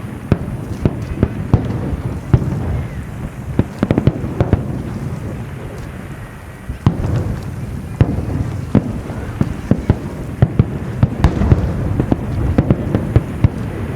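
Fireworks display: rapid, repeated sharp bangs of bursting shells over a continuous low rumble. The bursts thin out about six seconds in, then come thick again.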